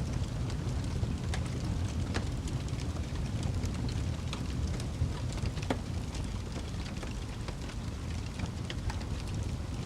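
Wood fire burning in a fireplace: a steady low rumble of flames with scattered sharp crackles and pops, a few louder pops about two seconds and nearly six seconds in.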